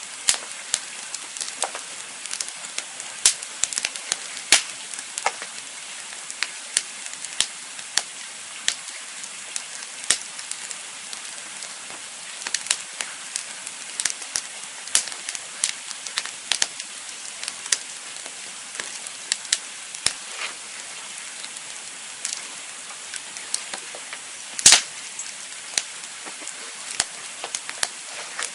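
Campfire burning with a steady hiss and frequent irregular crackles and pops from the burning wood, one pop near the end louder than the rest.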